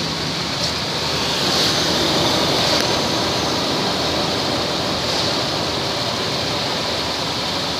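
2002 Ford Explorer engine running steadily, heard close to the open engine bay, with a steady hiss over a low rumble.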